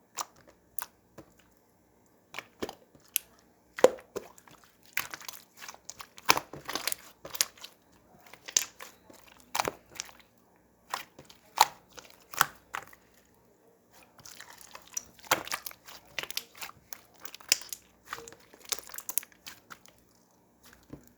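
Slime being squished, pressed and stretched by hand, giving irregular sticky clicks and crackling pops with short pauses between handfuls.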